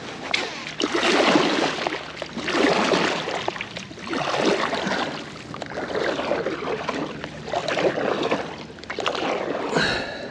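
Kayak paddle strokes through the water, each stroke a swell of splashing and swishing about every second and a half to two seconds. A short high squeak comes near the end.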